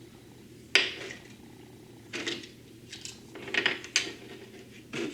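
Hard plastic 3D-printed parts clicking and clattering together as they are handled and fitted. There is a sharp click about a second in, then several short bursts of knocks.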